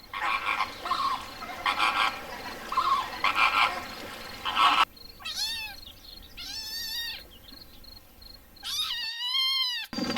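Domestic cat meowing: three drawn-out meows that rise and fall in pitch, in the second half. Before them, a run of short rough calls.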